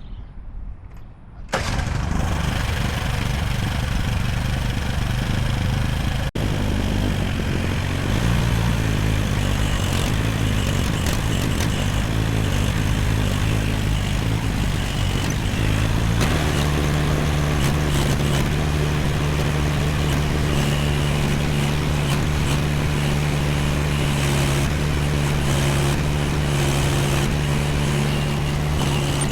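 AGT MX15R mini excavator engine starting about a second and a half in and then running steadily. About halfway through it settles into a steadier, more even running note.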